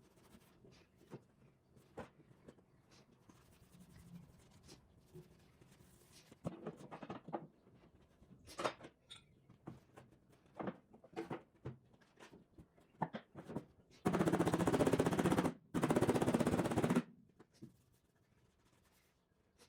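Bodywork on a steel car rear guard: scattered light taps and clicks on the panel, then two loud bursts of dense crackling, each about a second and a half long, some fourteen seconds in.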